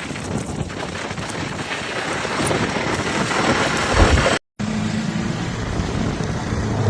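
Strong wind rushing over the microphone in a snowstorm, with a few low thumps. After an abrupt cut about two-thirds of the way in, a vehicle engine hums steadily.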